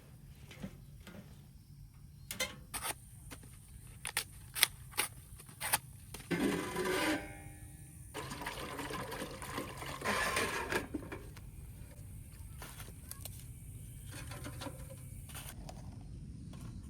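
Several sharp clicks and knocks, then water pouring into a container in two goes, the first with a slight rising pitch as it fills.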